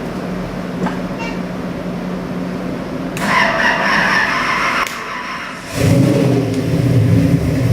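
A steady hum, then about three seconds in a loud whirring for under two seconds. About six seconds in, the big-block Chevy 454 V8 is running loudly.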